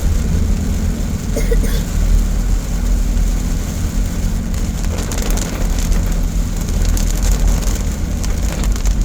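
A car driving, heard from inside the cabin: a steady low engine and road rumble.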